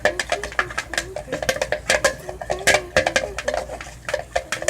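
Spoons clinking and scraping against a bowl as a gluey slime mixture is stirred, in quick irregular taps, several a second.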